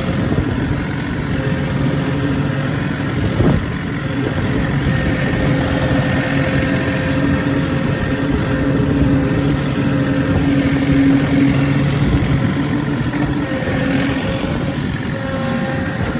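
John Deere diesel tractor engine running steadily under load as it drives a rotary brush cutter through grass, with a single sharp knock about three and a half seconds in.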